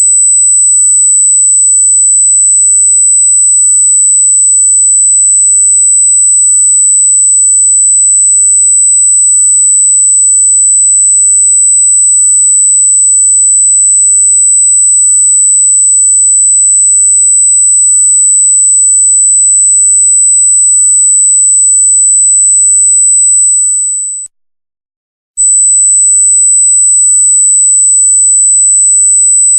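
A loud, steady, high-pitched pure electronic tone, sitting around 8 kHz. It cuts out for about a second near the end, then resumes.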